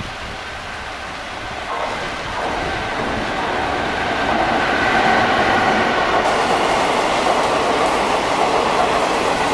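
Express train hauled by a WCAM3 electric locomotive running through the station at speed in heavy rain: the sound of its wheels builds over the first few seconds out of the hiss of the rain, then holds as a loud, steady rolling clatter of wheels on the rails.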